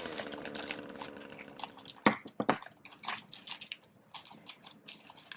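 Plastic Lego polybag crinkling as it is handled and cut open with scissors. Two sharp snips come about two seconds in, followed by a run of small crackles.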